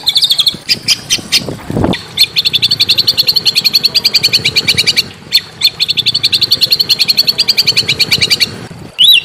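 A small songbird sings a fast, harsh trill of sharp repeated notes, about a dozen a second. It comes in two long runs with a short break in the middle. A few scattered chips and a brief low thud come just before the first run.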